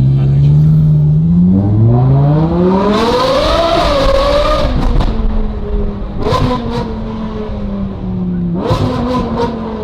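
Sports car engine revving hard under full acceleration, its pitch climbing steeply for about three seconds. The revs drop and pick up again at upshifts near five, six and nine seconds in, with a few sharp pops around the later shifts.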